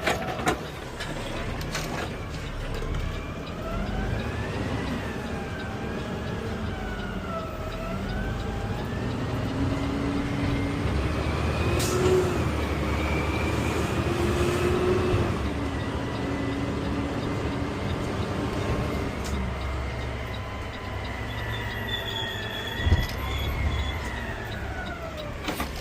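Peterbilt 520 garbage truck running, its engine rumble joined by a whine that rises and falls slowly in pitch as the truck speeds up and slows down. A single sharp knock sounds near the end.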